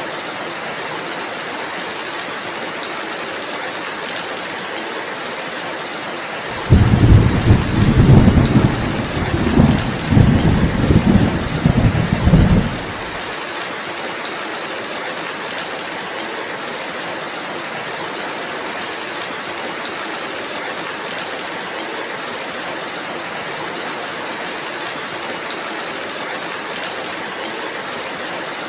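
Steady rain falling, with one deep rumble of thunder that comes in about a quarter of the way through, rolls for about six seconds and stops abruptly.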